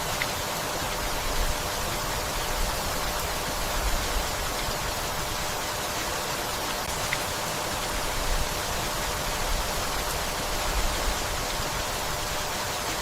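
Steady rainfall, an even hiss, with a few brief low swells and the odd single drop tick.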